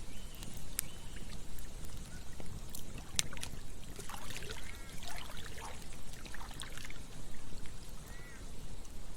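Campfire crackling and popping with sharp snaps over a steady rush of flowing river water. A few short bird calls come about halfway through and again near the end.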